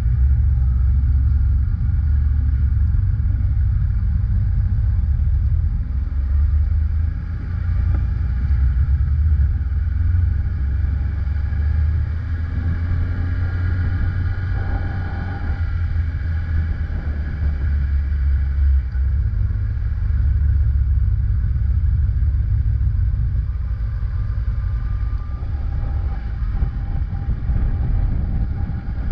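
Kawasaki ZX-10R's inline-four engine running as the bike is ridden in Sport mode, its pitch shifting with the throttle, under a loud low rumble of wind on the microphone.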